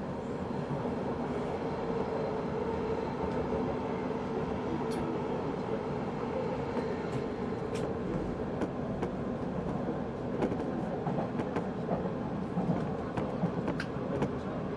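A 185 series electric express train running on the line, heard from on board as a steady rumble. Short clicks and knocks from the wheels and track come more often in the second half.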